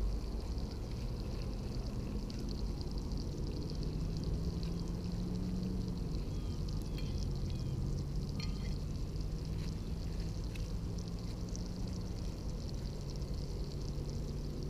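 Campfire burning: a steady rushing noise with scattered small crackles and ticks, and a faint low hum underneath.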